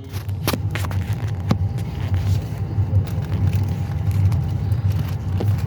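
Passenger train running out of a station: a steady low rumble with a few sharp knocks.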